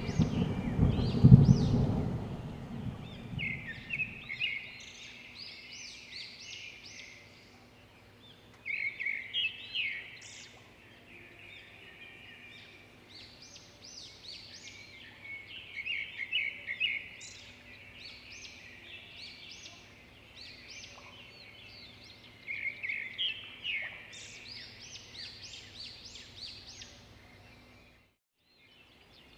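Small birds chirping in quick runs of short, sweeping notes that come in clusters every few seconds, over a faint steady low hum. A loud low rumble fades out in the first two seconds.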